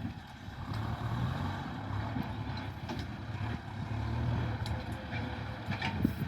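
Tractor's diesel engine running steadily while ploughing a field, with light clatter and a louder knock near the end.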